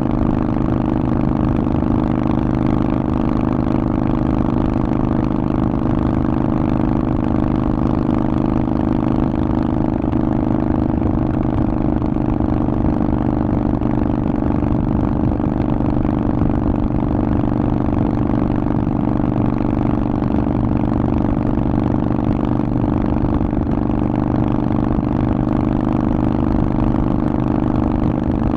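Harley-Davidson Forty-Eight's air-cooled 1200 cc V-twin running at a steady engine speed through a Vance & Hines aftermarket exhaust, with no revving.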